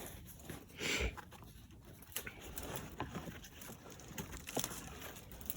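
Faint rustling and light clicks of a hiker moving over leaf litter and rock, with one louder rustle about a second in.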